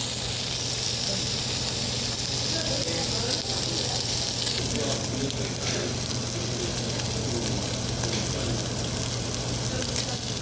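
Pork sizzling on a hot table grill with a steady hiss, under faint voices and a low steady hum.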